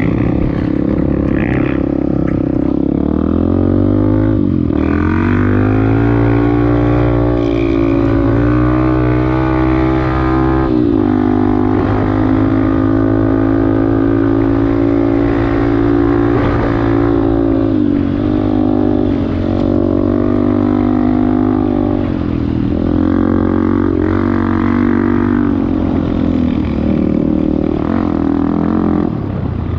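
Off-road motorcycle engine running continuously at changing revs, its pitch dipping and rising several times as the throttle is worked.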